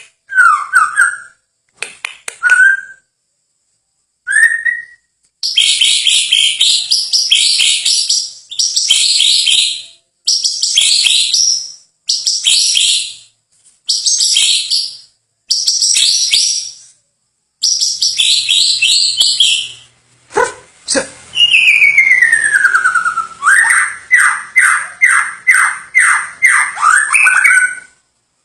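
Songbird singing in a series of short, high, chirping phrases with brief pauses between them, then a long falling whistle followed by a rapid run of repeated notes near the end.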